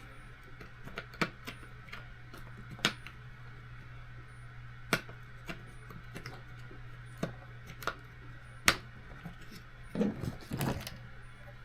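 Irregular light clicks and taps of small screws and parts being handled and set down on a workbench, over a steady low hum.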